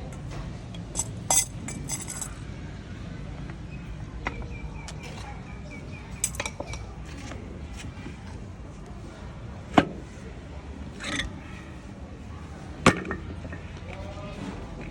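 Metal tools and parts clinking and knocking now and then during hand work on an old air compressor, with two sharper strikes in the second half, over a steady low hum.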